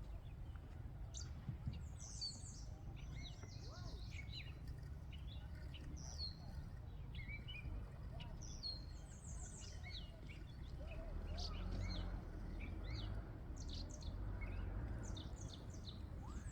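Small birds chirping and singing, many short quick notes and sweeps throughout, over a steady low rumble.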